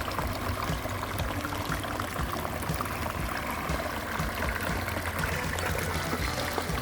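Water of a rock waterfall splashing and trickling steadily over stones into the basin.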